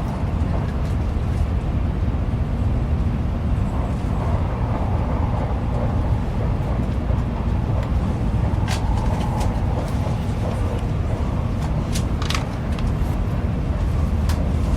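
Shinkansen bullet train running at speed, heard inside the passenger cabin: a steady low rumble, with a few sharp clicks in the second half.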